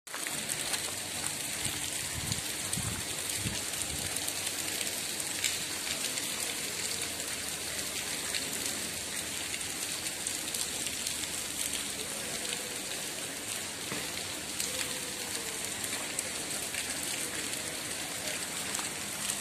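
Steady rain falling on a wet paved street, an even hiss with no let-up.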